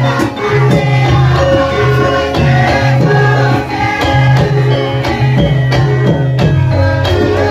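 Javanese traditional ensemble music: drum strokes keep a steady beat under sustained melodic lines.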